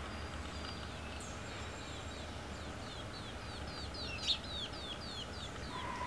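A small bird calls a quick run of short, high, downward-sliding chirps, about four a second, over faint outdoor background noise. A single sharp tap sounds partway through.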